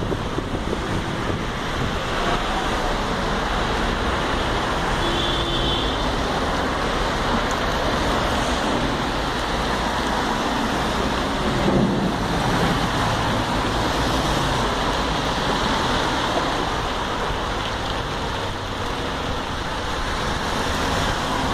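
Steady rain falling, a dense even hiss, with a brief swell about twelve seconds in.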